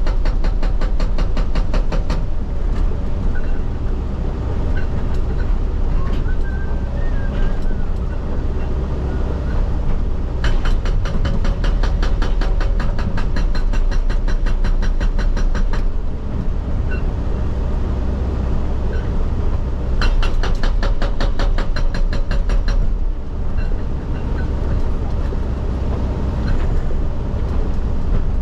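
Excavator's hydraulic rock breaker hammering in three spells of rapid, even blows, the first ending about two seconds in, the second from about ten to sixteen seconds, the third from about twenty to twenty-three seconds. Between spells the excavator's diesel engine and hydraulics run steadily. Heard from the operator's cab.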